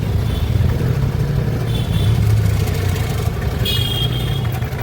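A vehicle engine running steadily with a low rumble, with two short high-pitched sounds about two and four seconds in.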